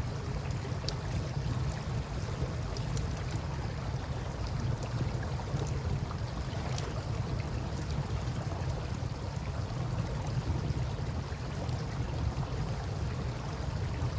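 Campfire burning with scattered faint crackles and pops over a steady low rumble of flowing river water and wind.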